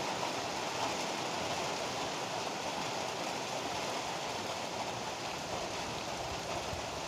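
Heavy rain pouring steadily, an even hiss with no let-up and no thunder.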